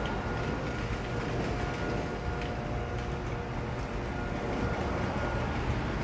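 Freight train of autorack cars rolling past, a steady low rumble of wheels on rail, with a faint thin high tone held throughout.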